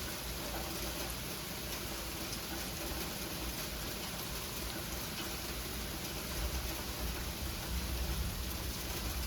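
Sleet falling and striking surfaces: a steady hiss made of many tiny clicks. A low rumble of thunder builds in over the last few seconds.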